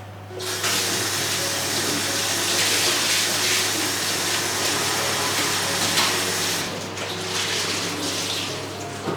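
Water running hard from a tap, coming on about half a second in; the flow gets weaker about two-thirds of the way through.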